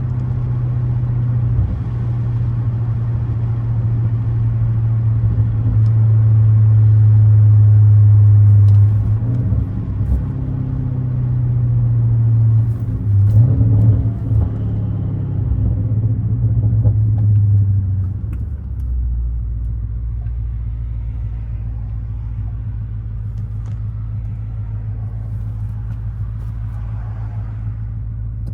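BMW 550i's N63 twin-turbo V8 exhaust, straight through with catless downpipes, an H-pipe and a muffler delete, droning steadily while the car drives. The drone swells in the first third, then settles to a lower, quieter tone about two-thirds of the way through.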